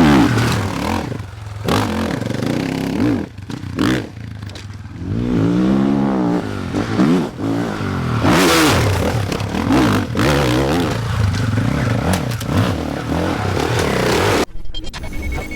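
Single-cylinder four-stroke engine of a KTM 500 enduro motorcycle being ridden hard, revving up and falling off again and again as the throttle is opened and closed through the gears. Clattering and scraping mix in, and the sound changes abruptly near the end.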